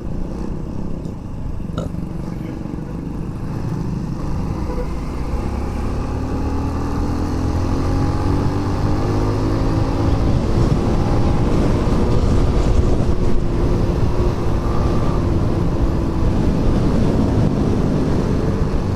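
Motorcycle engine running on the move, with wind and road noise; its pitch rises and it grows louder over the first half or so as the bike speeds up, then holds steady.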